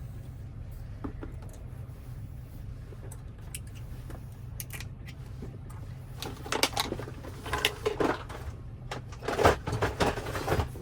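Metal keys and small parts being handled: a steady low hum for the first six seconds, then bursts of clicking and rattling, loudest about a second before the end.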